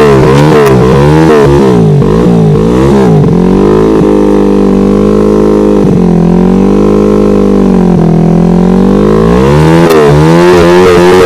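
Trail motorcycle engine revved hard in quick repeated throttle blips, held at steady high revs for several seconds in the middle, then blipped again near the end.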